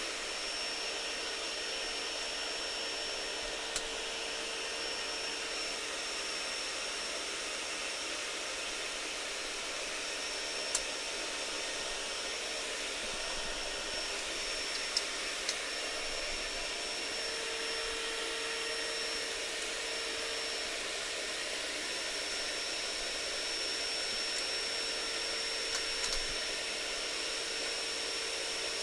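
Steady blower-like whooshing hiss with a faint high whine, broken by a few light clicks.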